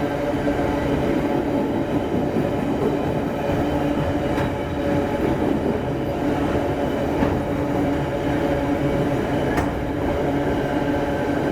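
Heavy loaded freight train rolling by: a steady rumble under a constant hum, with a few sharp clicks from the wheels on the rails.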